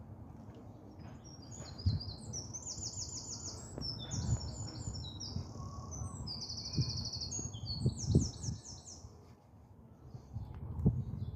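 A songbird singing one long, varied song of rapid high trills and quick repeated notes, starting about a second in and stopping after about eight seconds, with a few low thuds underneath.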